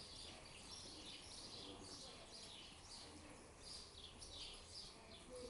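Faint, high chirps of small birds, a couple each second, each falling in pitch, over near-silent background noise.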